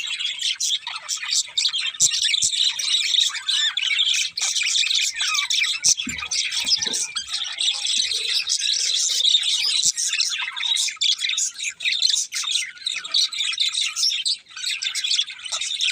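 Several budgerigars chirping and chattering without a break, many quick high chirps overlapping.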